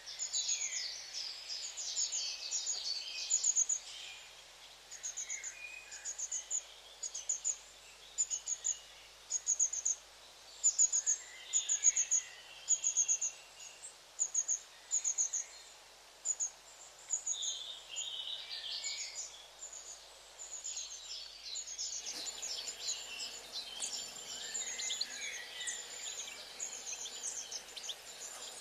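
Mixed chorus of wild songbirds chirping, with one bird repeating a short, high note about once a second. About two-thirds of the way through, this gives way to a denser tangle of quick chirps and trills over a soft hiss.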